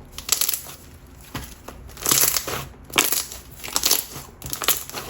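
Jelly slime being squished and pressed by hand, giving off crispy bubble pops in a series of crackling bursts, about one every half second to a second.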